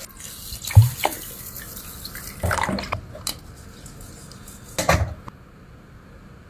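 Short spells of splashing water with a few knocks, the loudest a thump about a second in.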